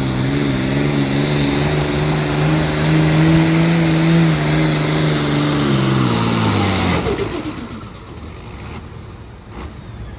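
A pulling vehicle's engine running hard at high revs under load, its pitch climbing slightly and holding steady, then dropping and fading about seven seconds in as the run ends.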